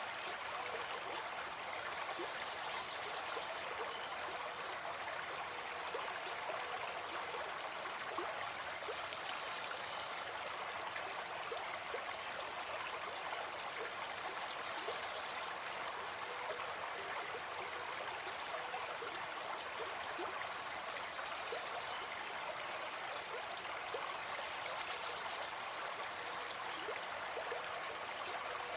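Gentle forest stream flowing: a steady, even rush of running water.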